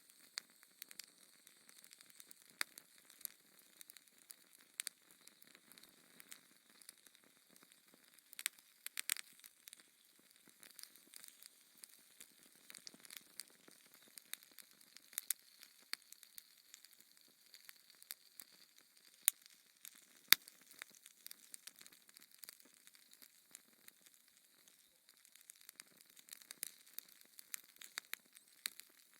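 Wood fire crackling in a fireplace: irregular sharp pops and snaps over a faint hiss, with two louder pops about two-thirds of the way through.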